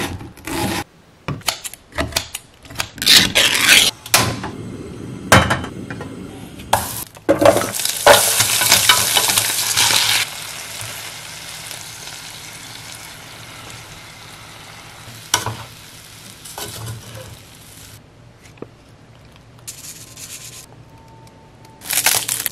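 A knife chopping onion on a wooden cutting board in sharp separate strikes, then diced Spam, onion and kimchi frying in a small pot with stirring. The sizzle is loud at first and settles into a steadier hiss. Near the end there is a brief crisp crackle of roasted seaweed being crumbled by hand.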